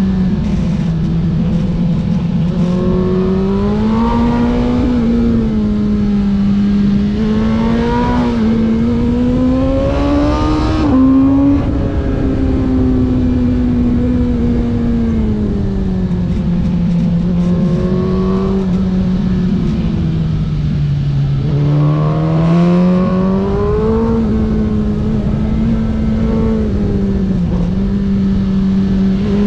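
Racing engine running hard without a break, its note climbing and dropping again and again as it revs up and eases off, with a sudden jump in pitch about eleven seconds in.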